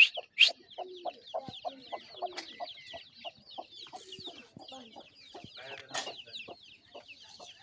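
Chickens clucking in short repeated calls, over a constant chatter of rapid high-pitched chirps. Two loud sharp calls stand out at the very start.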